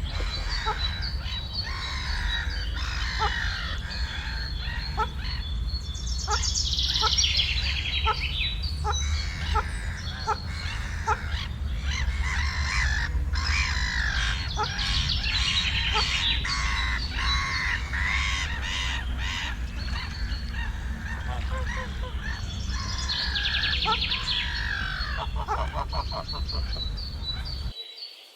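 A chorus of many wild birds chirping and singing, with overlapping trills and short calls, over a steady low rumble that cuts off suddenly near the end.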